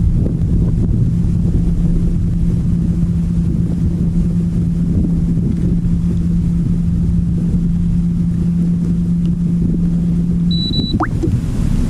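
Wind rumbling on the microphone with a steady low hum that stops abruptly near the end, followed by a brief high beep and a quick rising squeak.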